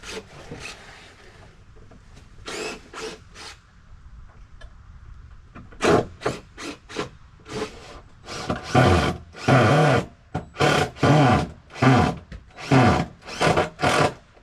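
Wood being worked by hand in repeated rasping strokes, roughly one a second, that grow longer and louder in the second half.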